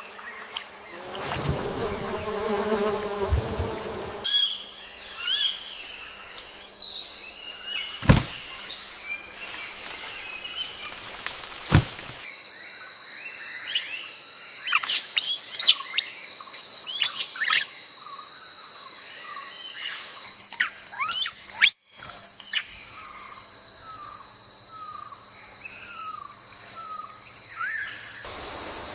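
Rainforest ambience: a steady high-pitched insect chorus with many short bird chirps and calls over it, and a couple of sharp knocks. The background changes abruptly several times, as if different recordings are spliced together.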